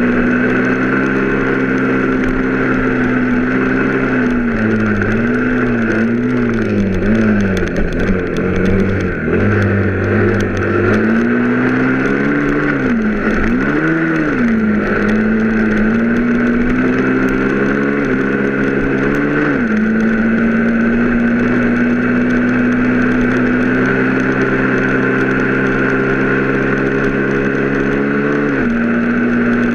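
A vehicle's engine running while under way, its pitch mostly steady and dropping and climbing again a few times as the throttle is eased off and reopened, with a few sudden steps in pitch like gear changes, over a steady rush of road and wind noise.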